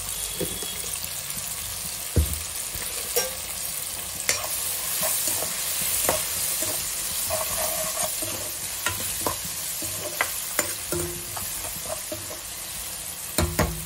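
Sliced onions, tomatoes and green chillies sizzling in oil in a non-stick kadai while a spatula stirs them, with scattered clicks and knocks of the spatula against the pan; the loudest knock comes about two seconds in and another cluster near the end.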